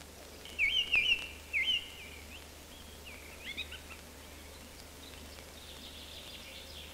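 Small bird chirping: a quick run of short, high, swooping chirps in the first couple of seconds, then a few fainter ones, over a faint steady low hum.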